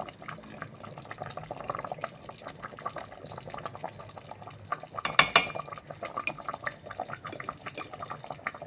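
Curry sauce bubbling in a cooking pot, with many small irregular pops. A louder, ringing clink comes a little past halfway.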